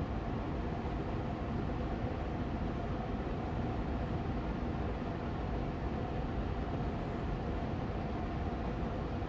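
An Austin Air Allergy Machine air purifier's fan running steadily on medium speed. It gives an even rush of air with a faint hum.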